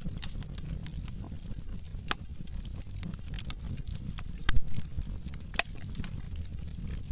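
Wood fire in a fireplace, logs burning with irregular sharp crackles and pops over a low steady rumble of the flames, the loudest snaps about four and a half seconds in.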